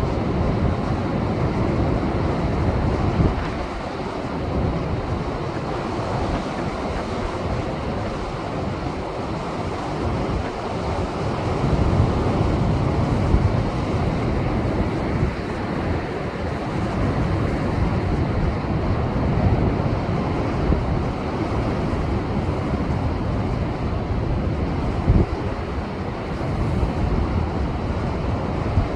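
Heavy post-typhoon swell breaking against a rocky seashore: a continuous rush of surf that swells and eases every few seconds as waves come in. Wind buffets the microphone.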